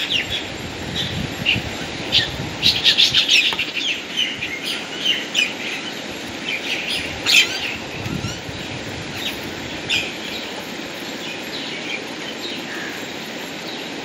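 Several birds chirping in quick runs of short, sharp notes, busiest about three seconds in, with single calls near seven and ten seconds.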